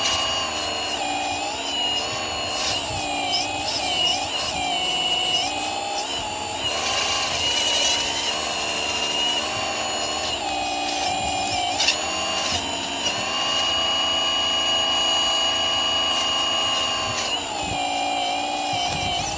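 Hydraulic pump motor of a radio-controlled excavator, a steady whine whose pitch shifts up and down as the arm and bucket move, held at a higher even pitch for a few seconds in the second half.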